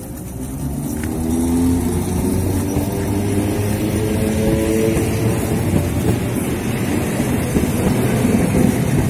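Train Jaune electric motor railcar pulling away and gathering speed. Its traction motors give a whine of several tones climbing in pitch, over the rumble of wheels on the rails, growing louder over the first two seconds as it passes close.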